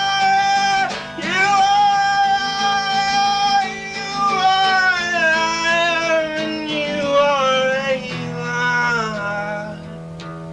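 Live folk-rock song: a man's voice sings long held, wavering notes over a strummed acoustic guitar, the melody stepping downward. The voice stops about nine seconds in, leaving the guitar strumming.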